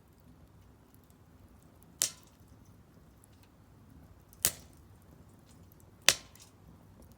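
Firewood burning in a Solo Stove Campfire fire pit: three sharp pops from the wood, with faint ticking crackles between them.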